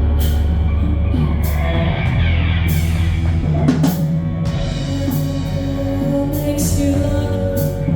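Live band playing a rock arrangement: a drum kit with repeated cymbal crashes over a sustained bass line.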